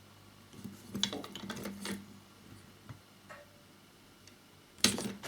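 Light clicks and taps of small model motorcycle parts being handled and fitted, with a cluster of clicks about one to two seconds in and one sharper click near the end.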